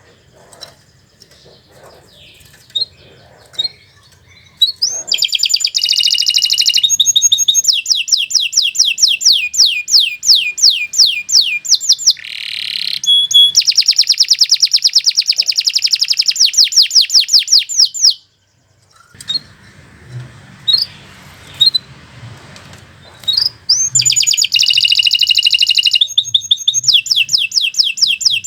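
Domestic canary singing long trills of fast repeated high notes, with the song stopping for a few seconds at the start and again in the middle before it resumes loudly.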